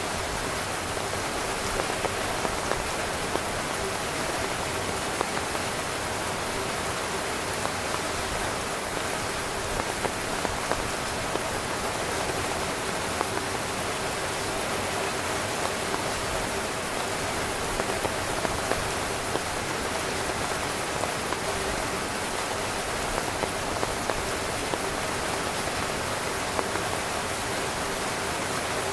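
Heavy rain falling steadily on a tent, a dense even hiss broken by many sharp ticks of single drops striking the fabric.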